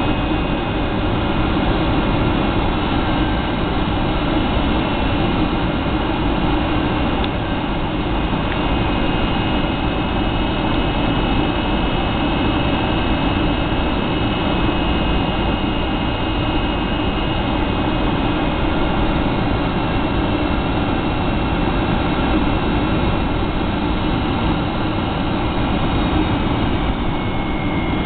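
Steady cabin noise inside a Boeing 757-200: jet engines running and air rushing past the fuselage, an even drone with a few faint high tones above it.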